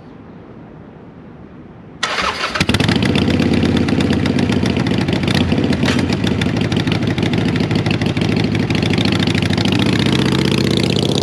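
Harley-Davidson Iron 883's V-twin engine being started: about two seconds in it cranks briefly, catches, and then runs steadily and loudly.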